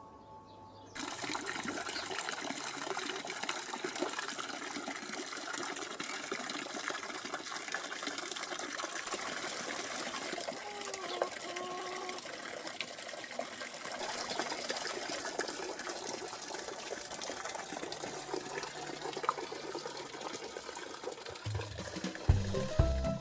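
Water splashing steadily from an old tap into a small pond, starting suddenly about a second in. A short call is heard near the middle, and theme music comes in near the end.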